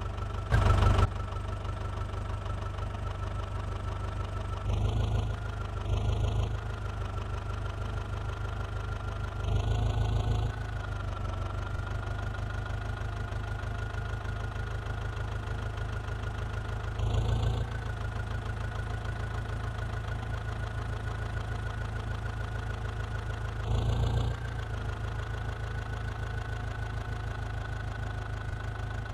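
Massey Ferguson 9500 tractor's diesel engine running steadily, with about six brief louder surges.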